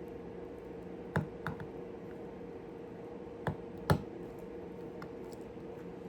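Small sharp clicks and taps of nails being handled and pushed into concrete-coated styrofoam: four clicks, two about a second in and two close together near the middle, the last the loudest, over a steady low hum.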